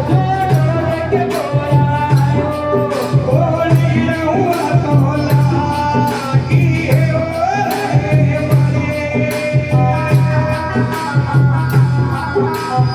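Live Indian devotional folk music: a melody over a steady, even drum beat with regular percussion strokes.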